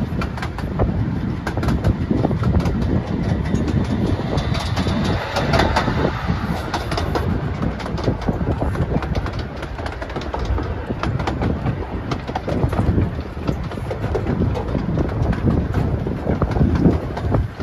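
15-inch gauge miniature railway train running along the track, heard from its open passenger carriage: a steady rumble with frequent irregular clicks from the wheels on the rails.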